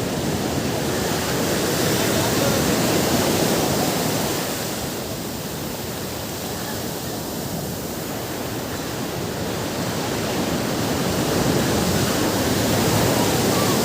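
Ocean surf washing onto a beach: a steady rush of breaking waves that swells about three seconds in, eases off through the middle, and builds again near the end.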